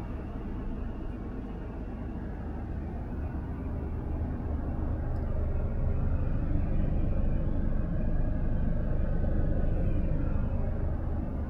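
Scania R500 truck running: a steady low rumble that swells a little through the middle and eases near the end.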